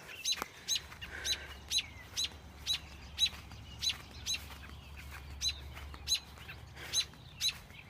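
A bird chirping sharply over and over at an even pace, about two chirps a second: the alarm calls of adult birds around a fledgling that cannot fly.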